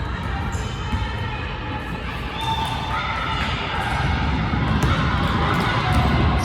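A basketball bounces on a gym floor during play, with sharp knocks over crowd voices in a large hall; the crowd noise swells in the second half.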